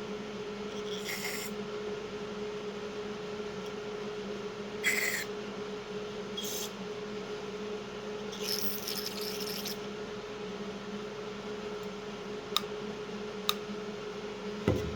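Short hisses of aerosol carb cleaner sprayed into the jets and passages of a Briggs and Stratton carburetor: four bursts, the last about a second long, over a steady low hum. Two sharp clicks near the end.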